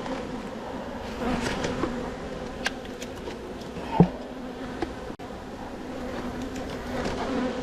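Many honeybees buzzing in flight around an open hive, a steady drone with single bees now and then passing close to the microphone, their pitch rising and falling. The bees are defensive, typical of a hive opened very late in the season. A single sharp knock about four seconds in.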